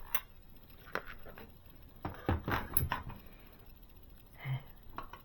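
Light clicks, taps and rustles of a small 8mm socket wrench and plastic-and-metal model parts being handled while the rear axle nut of a model swingarm is tightened, busiest about two to three seconds in.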